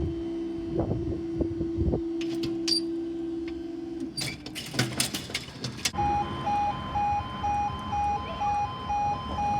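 Level crossing barriers rising with a steady hum that stops about four seconds in, followed by a few clicks. From about six seconds, a level crossing's electronic audible warning pulses a couple of times a second.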